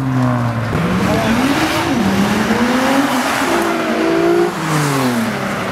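Car engine under hard acceleration, the pitch climbing and dropping at each gear change, then falling away as the car passes close by.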